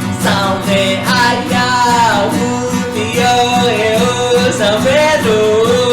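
Music: a voice singing a gliding melody over a strummed acoustic guitar; the voice comes in just after the start.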